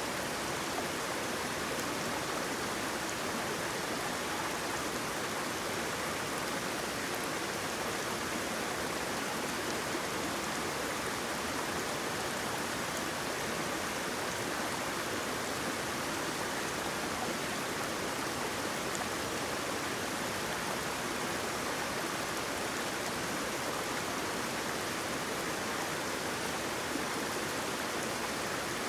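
Waterfall, its water rushing steadily in an even, unbroken hiss with no pauses or changes.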